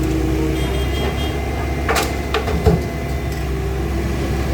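Excavator's diesel engine running steadily, with a few sharp knocks about two seconds in and a louder one shortly after.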